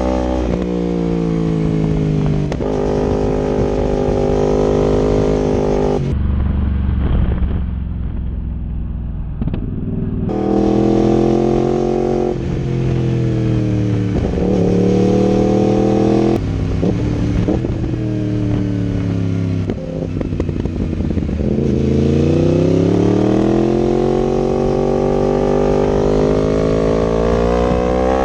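2019 Yamaha R1 crossplane inline-four running through an Akrapovic exhaust and link pipe on the move. The engine note rises and falls with throttle and gear changes. About six seconds in it drops to a low rumble for a few seconds, then picks up again.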